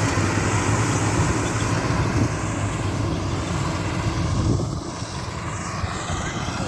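An engine running steadily, its level dropping a little about five seconds in.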